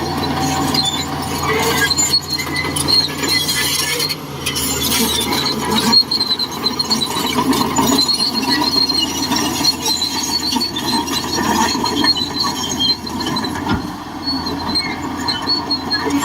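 Shantui DH17C2 crawler bulldozer working: its engine runs with a steady drone while the steel tracks give off a high, continuous squeal and clatter.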